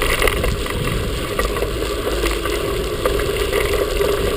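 Mountain bike descending a rough trail at speed: wind rushing over the microphone while the bike rattles and clatters over bumps.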